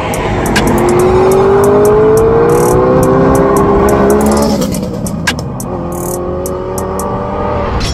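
Audi R8 accelerating past, its engine note rising steadily for about four seconds, dropping, then rising again. Music plays underneath.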